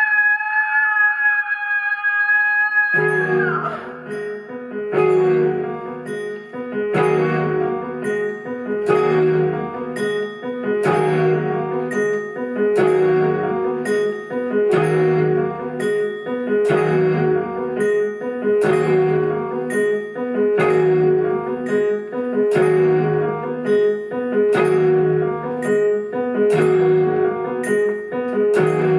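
Live instrumental music from a small ensemble. A single held note stops about three seconds in, and a repeating figure of struck notes follows with a steady pulse of about two a second.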